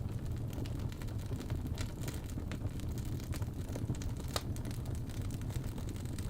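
Wood logs burning in a fireplace: a steady low rumble of flame with scattered crackles and pops, one sharper pop a little past the middle.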